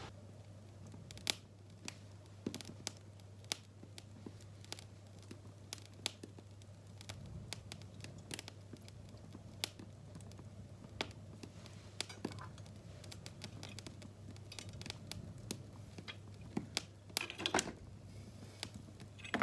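Wood fire crackling in an open fireplace: irregular sharp pops and snaps, with a quick run of louder ones near the end, over a faint steady low hum.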